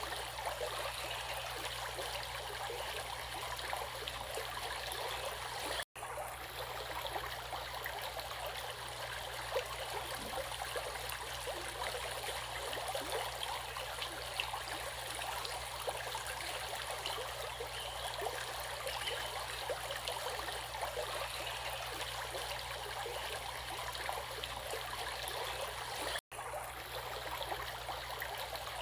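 Steady flowing stream water running and bubbling, with many small splashes. The sound cuts out for an instant twice, about six seconds in and near the end.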